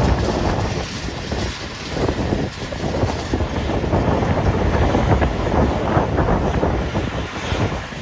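Aircraft engine noise mixed with wind buffeting the microphone. It is a loud, gusting rumble without a clear tone, easing slightly after the first second.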